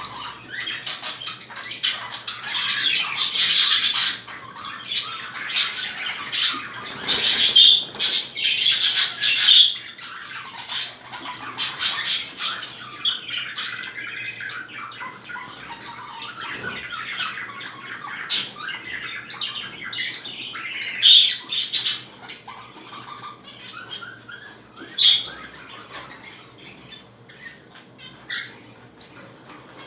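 Budgerigars chattering and squawking: a busy run of warbles and sharp short calls, loudest in the first ten seconds and again about twenty seconds in, thinning out near the end.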